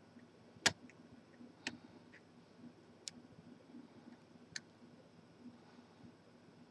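Lock-picking tools clicking in a padlock: four sharp, separate metallic clicks a second or more apart, the first the loudest, over a faint steady hum.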